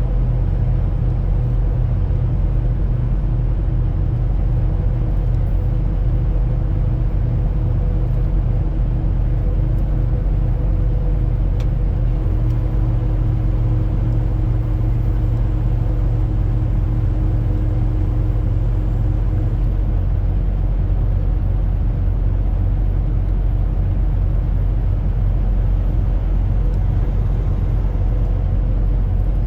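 Truck driving: a steady low rumble of engine and road noise with a constant hum and no change in pace.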